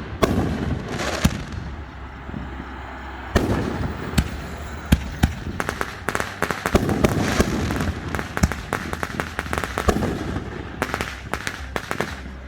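Aerial fireworks going off: a rapid run of sharp bangs and crackles over a rumbling wash, densest from about three seconds in to about ten seconds, then another brief flurry near the end.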